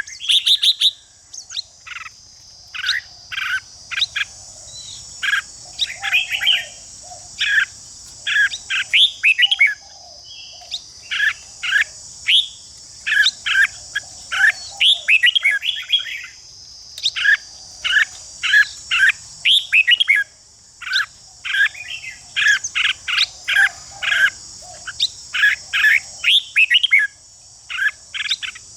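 Red-whiskered bulbul singing short, rapid song phrases one after another, over a steady high-pitched buzz.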